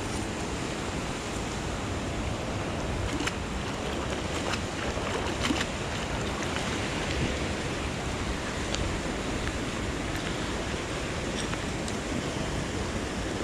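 Steady hiss of rain and wind on the microphone, with a few scattered small taps.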